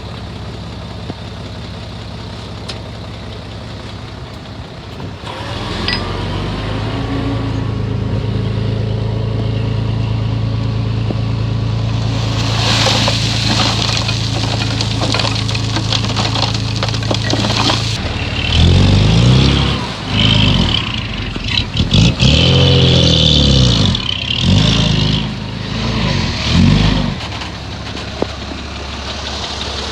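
Komatsu bulldozer's diesel engine running, throttling up about five seconds in and working hard, with scraping and knocking noises joining from about twelve seconds in. Later the engine revs rise and fall several times in quick swings before it settles back to a lower idle near the end.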